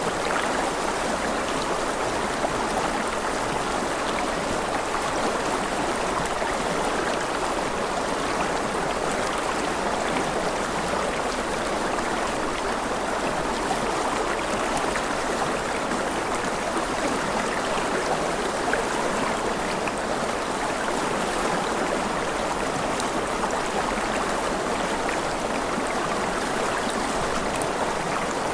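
Running water, a flowing stream, giving a steady, even rush that does not change.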